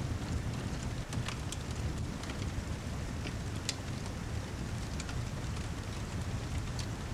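Steady rain mixed with a crackling wood fire: a constant low, rumbling hiss with sharp pops from the fire scattered irregularly throughout.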